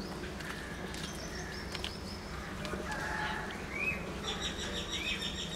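Birds chirping: a string of short high calls, with quick ticking notes and rising-then-falling chirps growing busier in the last couple of seconds, over a steady low hum.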